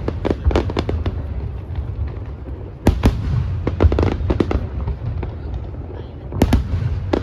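Aerial fireworks shells bursting: a sharp bang about three seconds in and another near the end, with rapid crackling strikes between them.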